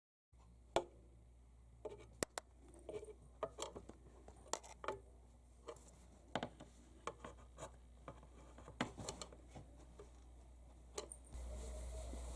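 Low steady hum, typical of a car amplifier and subwoofer rig switched on but not being played, under scattered small clicks, scratches and rubs of handling. About eleven seconds in, the hum steps up louder.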